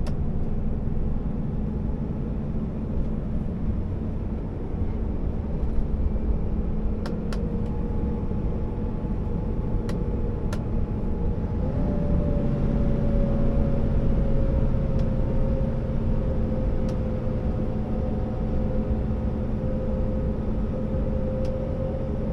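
Scania R650 timber truck's V8 diesel engine and drivetrain running under load on the road, a steady low rumble. About twelve seconds in the engine note steps up in pitch, then slowly sinks again.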